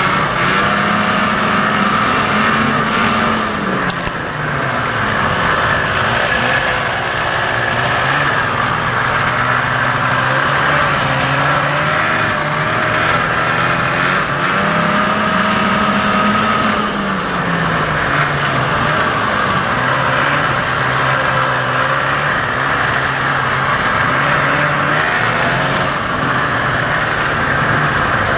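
1987 Ski-Doo Safari 377 snowmobile's Rotax two-stroke twin running, its pitch rising and falling a few times as it is revved, with a sharp click about four seconds in.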